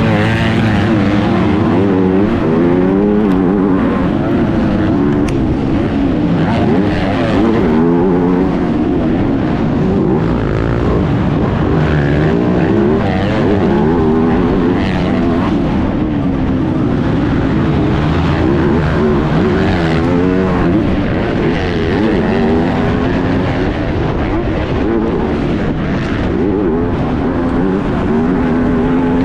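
MX2 motocross bike engine, heard onboard, revving up and dropping off again and again as the throttle is worked around the track.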